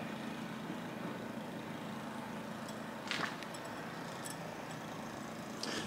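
Steady low background hiss, with a short soft rustle about three seconds in and another near the end.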